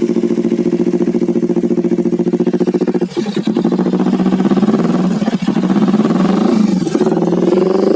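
Kawasaki Ninja 250 FI parallel-twin engine running at a steady low speed through an RCB Kompetisi aftermarket racing exhaust, with brief dips about three and five and a half seconds in.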